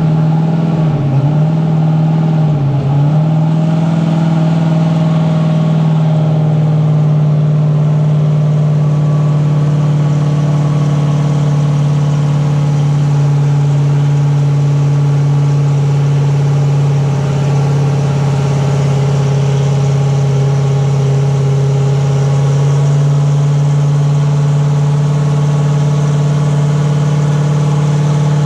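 Turbocharged Gen V LT V8 running steadily at a constant speed. Its pitch dips briefly a few times in the first three seconds, then holds even.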